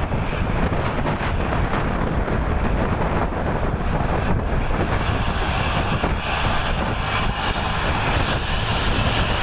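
Wind buffeting the microphone over a steady rumble of highway traffic, engines and tyres, as heard while moving along with the trucks.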